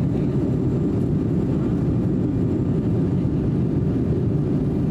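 Steady low rumble of airliner cabin noise in flight, engines and rushing air heard from inside the passenger cabin.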